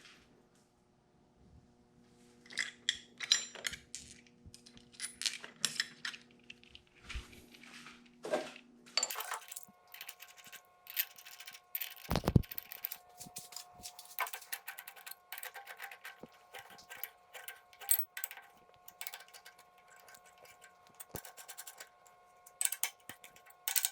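Scattered metallic clinks and taps of bolts and tools against the steel chuck and backplate as the backplate is bolted on. The strikes are irregular, with the sharpest knock about twelve seconds in.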